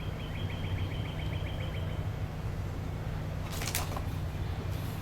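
A small bird's fast trill of short, high repeated notes, about eight a second, stopping about two seconds in, over a steady low rumble. A brief sharp rustle or scrape comes about three and a half seconds in.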